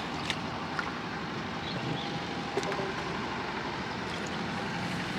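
Steady rushing background noise, like distant traffic, with a few light knocks.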